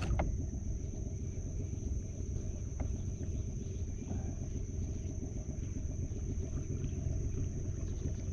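Steady low rumble with a thin steady high whine over it and a few faint clicks.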